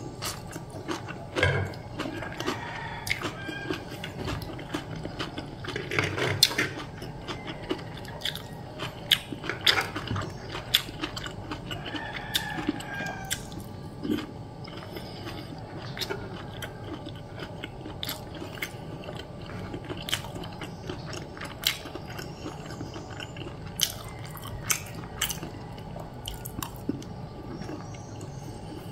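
Close-up chewing and biting of food, with irregular sharp clicks of a metal fork and spoon against the tray.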